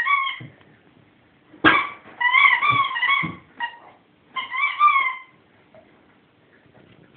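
A squeaky dog toy squeaked again and again as a Great Dane bites and chews it: a brief squeak right at the start, a run of wavering squeaks between about two and three seconds in, and another burst near five seconds, with a few dull knocks in between.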